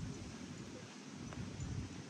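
Outdoor ambience dominated by an uneven low rumble of wind buffeting the microphone.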